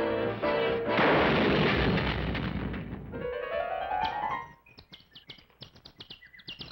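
Cartoon soundtrack: orchestral music, then about a second in a loud noisy blast-like sound effect lasting about two seconds, followed by a rising whistle-like glide and then faint rapid clicks and chirps.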